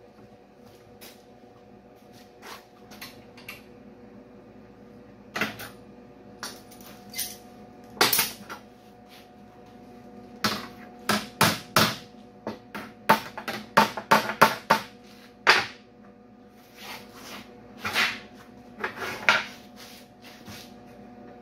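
Irregular clinks and knocks of small metal parts and tools being handled and set down, over a steady faint hum. They come sparsely at first, then in a quick cluster in the middle.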